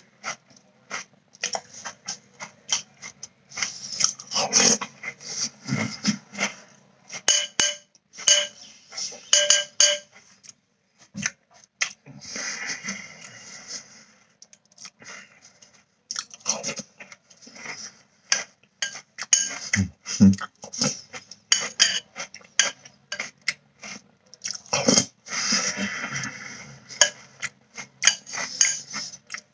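A man chewing crunchy Cinnamon Toast Crunch cereal close to the microphone, mixed with a spoon clicking and scraping against the bowl. It comes in uneven bursts of crunching and clinks with short pauses between mouthfuls.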